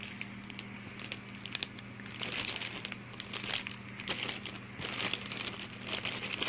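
Plastic bags around model-kit parts runners crinkling and rustling as they are handled, in irregular crackles that get busier about two seconds in.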